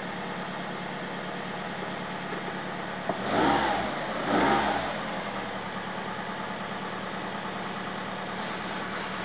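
1998 Toyota RAV4's four-cylinder petrol engine idling steadily just after a cold start. It is revved briefly twice, about three and four and a half seconds in, each time rising and falling back to idle.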